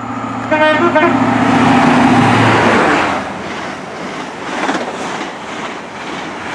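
High Speed Train (InterCity 125) with Class 43 power cars passing through at speed: a steady diesel engine drone, a short horn toot about half a second in, then the rush of wheels and coaches, loudest in the first three seconds.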